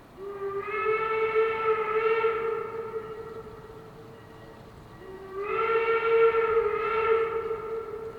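Steam whistle of the replica 1868 'American'-type 4-4-0 steam locomotive No. 331 blowing two long blasts. Each slides up in pitch as it opens and holds for about three seconds; the second begins about five seconds in.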